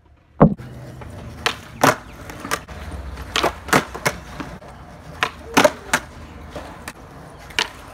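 Skateboard doing nollies on concrete: the sharp crack of the nose snapping the ground, then the clack of the landing a split second later, repeated about four times, with the wheels rolling on rough concrete between. A loud single knock about half a second in.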